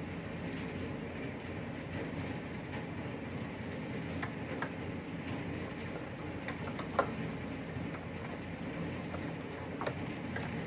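A few scattered light clicks and taps of small parts being handled, over a steady low hum.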